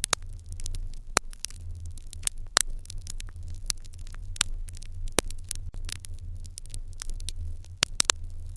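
Fire in an irori hearth crackling, with sharp irregular pops, a quick cluster of them near the end, over a steady low rumble.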